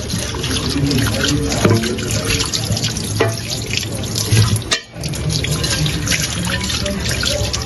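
Water running steadily from a tap into a sink, cutting out briefly just under five seconds in.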